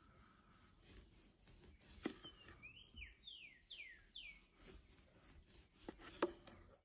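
Faint bird song: a quick run of about five falling whistled notes, with a few small sharp clicks.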